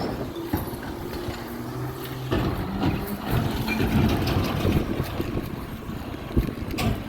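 Garbage truck engine running, its pitch rising and growing louder about two seconds in.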